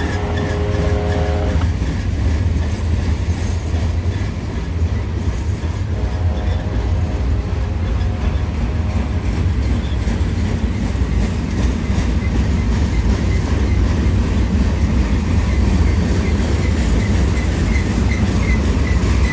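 Long freight train of empty flat cars rolling by, a steady heavy rumble with clickety-clack of the wheels over the rail joints. A held chord-like tone of several notes sounds until about a second and a half in, and again, fainter, for about three seconds from six seconds in.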